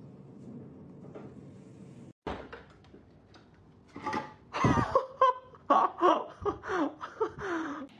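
A person laughing in a run of loud bursts, several falling in pitch, starting about halfway through and lasting almost to the end.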